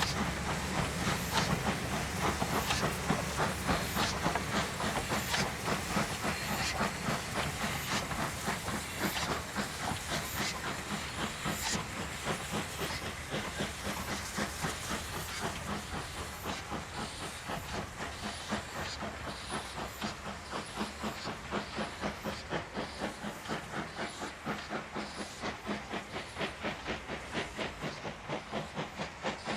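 Ivatt Class 2 2-6-2 tank locomotive No. 41313 working under steam: a steady, even beat of exhaust chuffs, about three a second, over a hiss of steam. The low rumble dies away about halfway through, and the beat grows a little fainter as the engine draws away.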